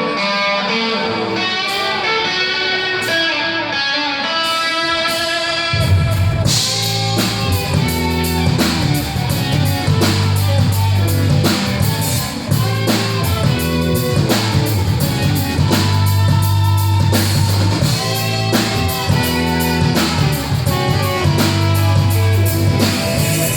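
Band playing a blues number: electric guitar alone at first, then about six seconds in, bass and drum kit come in under a repeating guitar riff.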